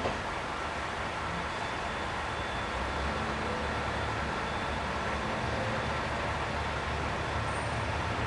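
EF81 electric locomotive hauling a freight train slowly into a station: a steady low hum and rumble over an even hiss, growing a little louder about three seconds in as it draws nearer. A brief click at the very start.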